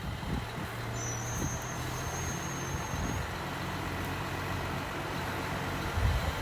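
Komatsu D53E bulldozer's diesel engine running steadily under work. A faint high whine sounds for about two seconds, starting about a second in.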